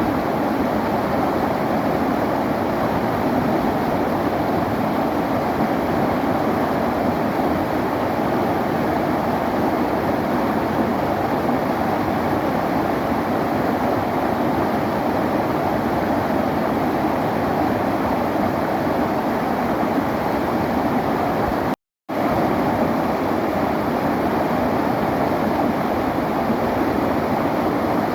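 River water flowing, a steady even rush with no separate splashes or drips. The sound cuts out completely for a fraction of a second about three-quarters of the way through, then comes back unchanged.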